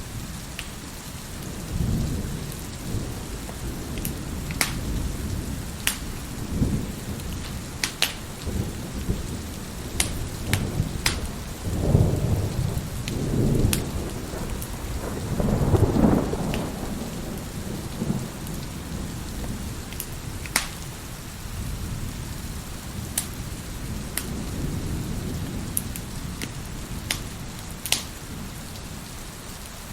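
Steady rain with rolling thunder that swells to its loudest in the middle, over the sharp pops of a crackling wood fire scattered throughout.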